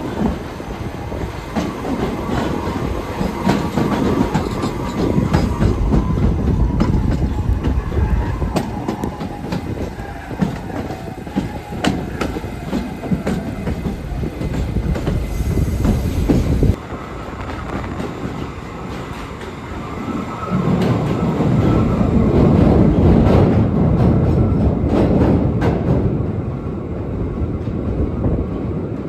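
New York City subway train running on the tracks: a steady rumble with rapid clicking of wheels over rail joints and a faint wheel squeal. The sound cuts off suddenly a little past halfway, then swells up loud again.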